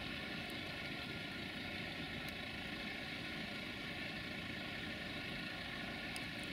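Freight train rolling away at low speed: a steady rumble of the open wagons' wheels on the rails, with a few faint clicks.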